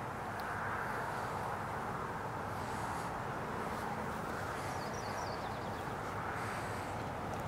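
Distant CN freight train led by GE C44-9W and ES44DC diesel locomotives approaching: a steady low drone under an even hiss. A bird chirps a quick run of high notes about five seconds in.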